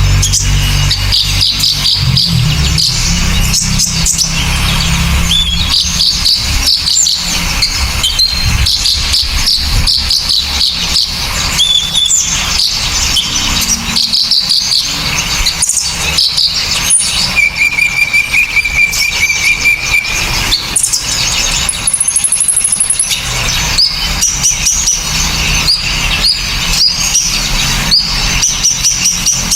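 Songbirds calling fast and sharply, with dense high chirps and chattering notes, a steady trill about two-thirds through and a short, very high buzzy note just after, over a constant low rumble. It is a mixed recording of kolibri ninja, serindit, kinoi and platuk songs.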